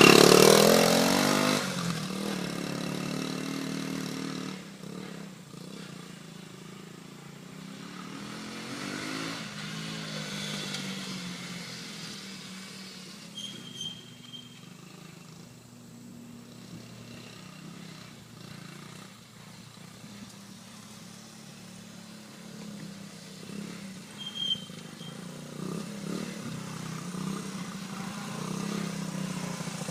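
1977 Honda CT90 Trail 90's small single-cylinder four-stroke engine running as the bike is ridden: loudest as it passes close by at the start, fading as it moves off after about four seconds, revving up again around ten seconds in, and growing louder again near the end.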